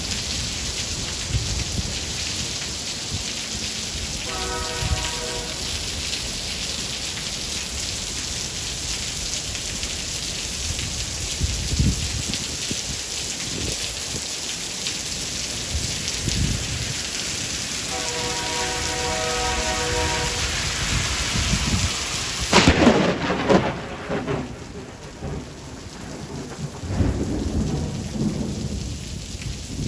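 Steady heavy rain with low rolling thunder. About three quarters of the way through, a sharp close thunderclap cracks, the loudest sound here, and breaks into a long rumble.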